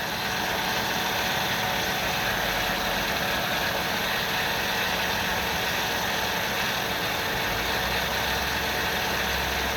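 Ford 3.8-litre V6 idling steadily at about 900 rpm under a heavy shake that the owner cannot trace: new ignition and seals, no vacuum leaks found, no misfires showing on the scope.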